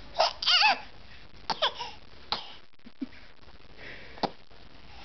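Baby making weird scratchy sucking-in sounds with her voice: a short wavering vocal burst, then several brief rasping intakes a second or so apart. This is the sound she makes after she poops, the sign of a dirty diaper.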